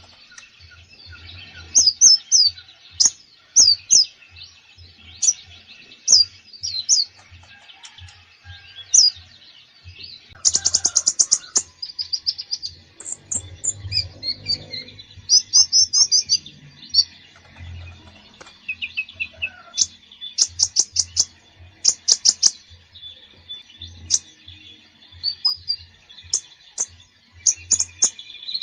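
A konin songbird singing a varied song full of phrases: short sharp chirps and whistled notes, broken by fast rattling trills about ten seconds in and again around twenty seconds.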